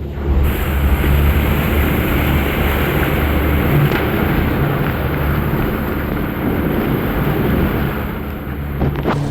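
Steady low rumble of a boat running offshore: engine noise mixed with wind buffeting the microphone.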